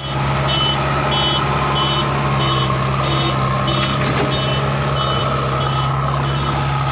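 A reversing alarm beeping steadily, about three beeps every two seconds, over a heavy diesel engine running at a steady speed.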